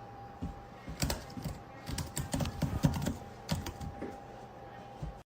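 A run of irregular light clicks and taps, with a faint steady tone underneath.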